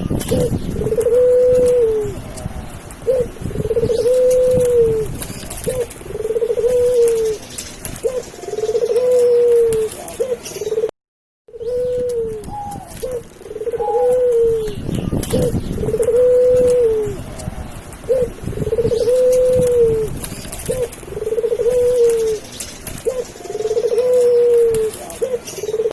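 Doves cooing over and over: a short note, then a longer arched coo, repeating about every couple of seconds. The sound drops out for half a second about eleven seconds in.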